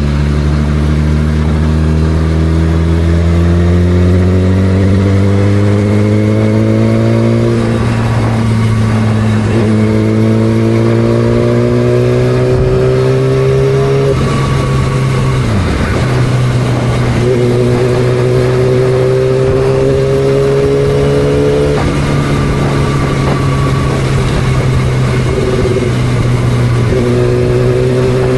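2006 Yamaha R6's four-cylinder engine under way, accelerating through the gears. Its pitch climbs in each gear and drops back at each shift, about half a dozen times, with one deeper dip in the middle.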